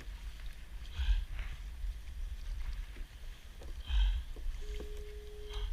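Water sloshing and dripping around a kayak while a crab pot line is hauled up by hand, with two short splashy surges and a steady low rumble of wind on the microphone. A brief steady tone sounds shortly before the end.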